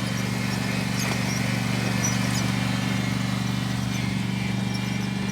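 Riding lawn mower's small engine running steadily, a low even hum with a fast regular putter.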